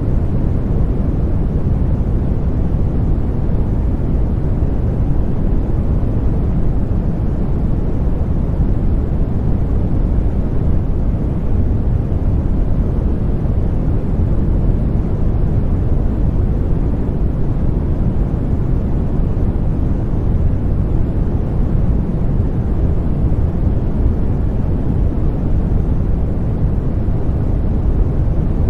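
Continuous white-noise sleep sound: an even, unbroken rush weighted toward the low end, more a deep rumble than a hiss, with no change throughout.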